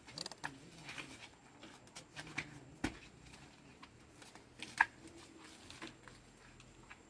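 Light rustling with scattered small clicks and taps, and one sharper click just before five seconds in.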